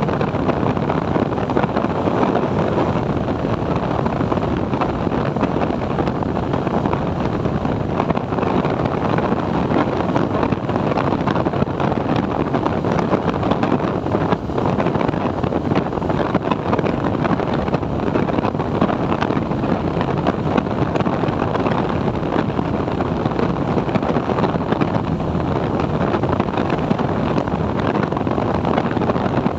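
A TVS Apache 4V motorcycle running steadily on the move, with wind rushing over the microphone.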